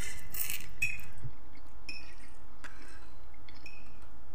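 A person eating spaghetti: wet chewing and mouth sounds in several short bursts, over a low steady hum.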